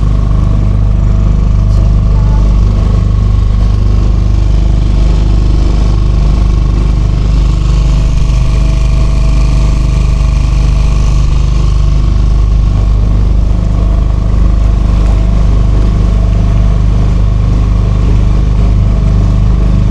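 Small leisure motorboat's engine running steadily at constant speed, a continuous low drone with a faint steady whine above it.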